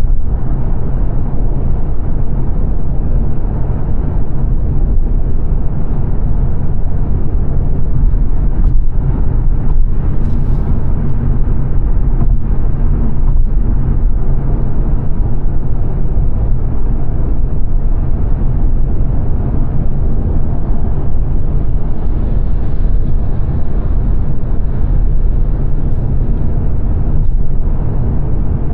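Steady road and tyre roar with engine drone inside a 2022 Mazda 3 saloon cruising at motorway speed, the sound heaviest in the low range.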